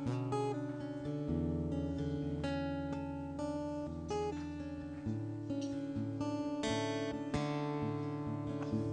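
Solo acoustic guitar playing an instrumental, plucked chords over ringing bass notes that change every second or so.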